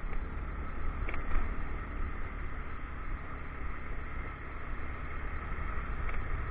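Motorcycle on the move: a steady low rumble of engine and wind and road noise on the action camera's microphone, with faint knocks about a second in and again near the end.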